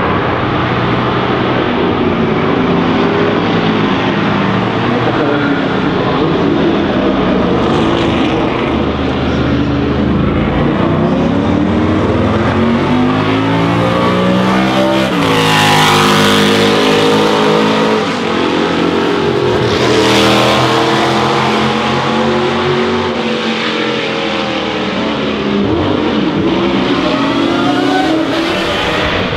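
Can-Am sports-racing cars at racing speed, their big engines revving and passing one after another, with overlapping engine notes rising and falling. The two loudest pass by about halfway through and again a few seconds later.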